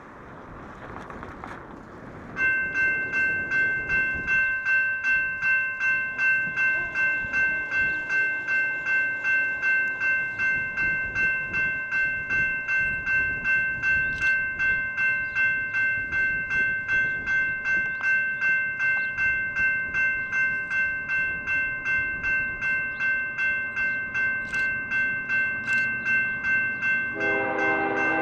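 Railroad grade-crossing warning bell starts about two seconds in and rings steadily, about two strokes a second. Near the end an approaching freight locomotive's horn begins to sound under it.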